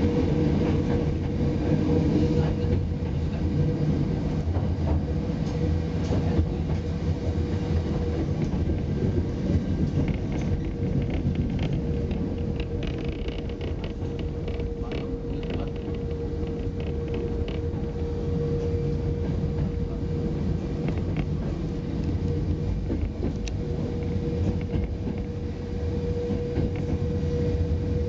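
Hakone Tozan Railway electric train running along a curving mountain track, heard from inside the front car: a steady low rumble of wheels and running gear with a constant hum, and scattered faint clicks from the rails.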